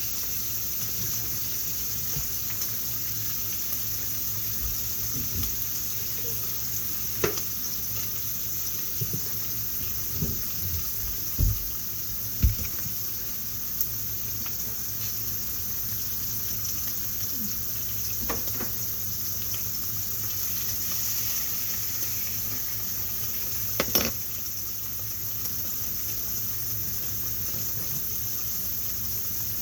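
Kitchen cooking sounds: a steady high hiss under scattered knocks and clinks of pots, pans and dishes, the sharpest about 24 seconds in.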